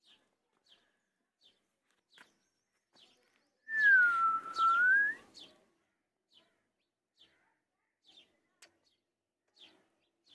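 Small birds chirping faintly over and over, a short high chirp about once a second. About four seconds in comes one much louder clear whistle-like tone, about a second and a half long, that dips in pitch and rises again.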